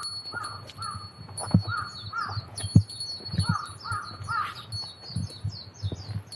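Wild birds calling: a short, curved call repeated about a dozen times in uneven groups, over quicker, higher falling chirps from a smaller bird, with scattered low thuds underneath.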